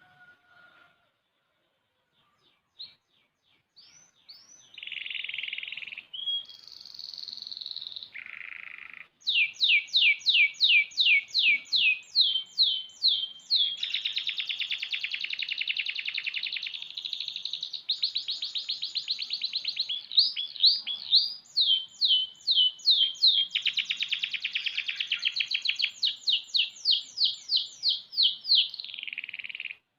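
Young domestic canary, six months old, singing a long unbroken song in full voice. After a few soft chirps it starts about four seconds in and runs on as strings of quick falling notes alternating with dense buzzy rolls, stopping right at the end.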